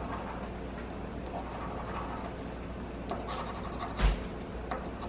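Scratch-off lottery ticket being scratched: a steady, quiet rasping of the scratch-off coating with short scrapes. A brief knock about four seconds in.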